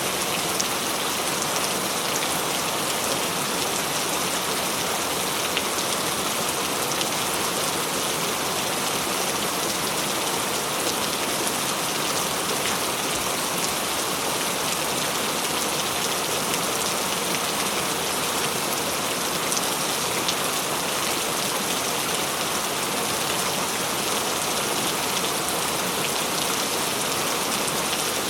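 Steady heavy rain falling and pattering on a surface, an even hiss with scattered small drop ticks and no let-up.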